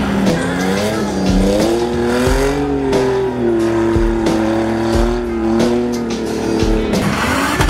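Audi quattro engine revving hard and wavering in pitch as the car slides on snow, over background music with a steady beat.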